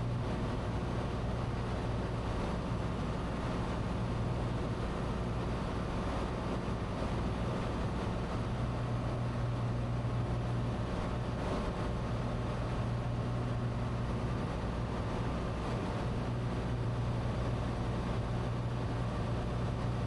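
Cessna 182T's six-cylinder Lycoming engine and propeller in flight, a steady, even drone as heard inside the cockpit.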